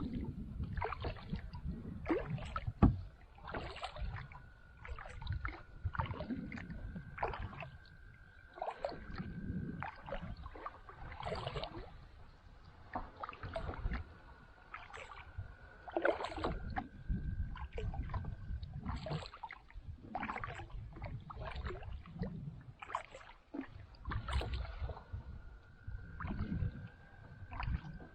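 Kayak paddle strokes dipping and splashing in the water, one about every second, with a sharper knock about three seconds in.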